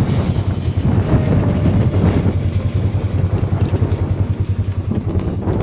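A vehicle engine running steadily, with a low, even hum, while wind buffets the microphone.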